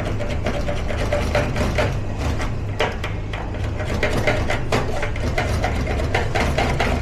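Steady low hum of kitchen machinery, with frequent short clicks and clatter of kitchen work over it.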